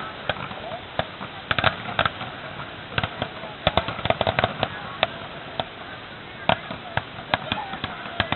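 Fireworks popping and cracking in irregular sharp reports, some in quick clusters, over faint crowd voices.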